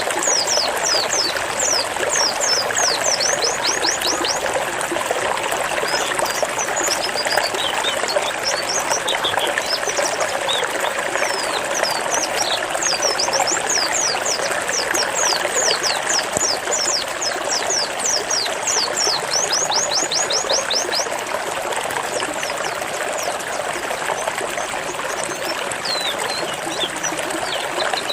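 Pleci (white-eye) singing its 'zipper' song: rapid runs of high, quickly falling whistled notes in two long bursts, with scattered single notes between. Under it runs a steady sound of trickling water.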